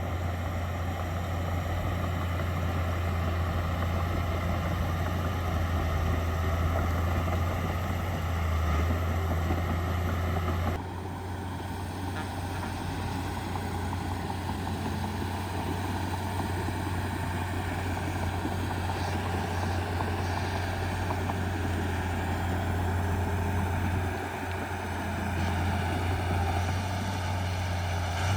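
Heavy diesel engine of earthmoving machinery running steadily with a strong low hum. The sound changes abruptly about eleven seconds in and dips briefly near the end.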